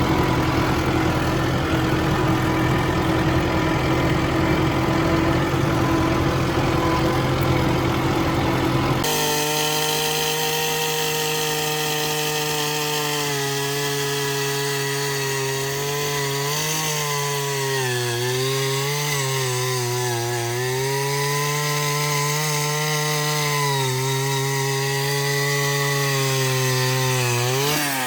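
Engine-driven post-hole auger boring fence-post holes: the engine runs hard, and its pitch sags and recovers again and again as the auger bites into the ground. About a third of the way in the sound changes abruptly to a smoother engine note, and near the end the engine winds down.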